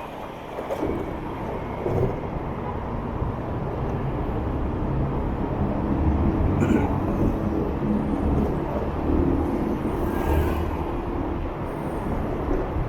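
Motorbike engine running while riding in city traffic, mixed with road noise; it grows louder over the first few seconds and then holds steady.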